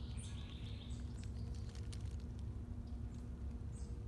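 Woodland ambience: a steady low rumble with a few short, high bird chirps, the clearest right at the start and again near the end.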